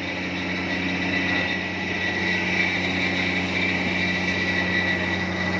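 Epiroc DM45 drill rig running steadily: an even engine drone with a steady high whine above it.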